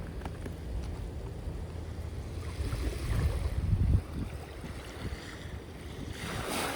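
Sea waves washing on the shore, with wind rumbling on the microphone. A surge builds about three to four seconds in, and another wave breaks with a hiss near the end.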